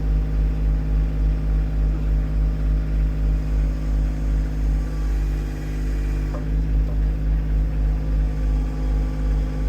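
Tractor engine running steadily with a regular throb, the sound easing briefly about halfway through.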